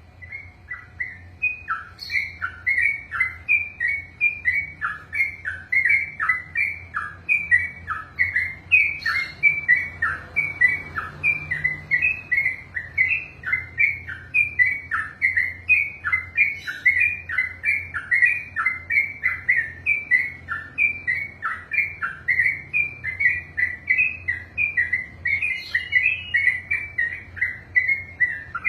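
Yellow-vented bulbul (trucukan) singing a long unbroken run of quick repeated notes, about three a second, each dropping in pitch. This is the continuous 'ropel' song that bird keepers train for.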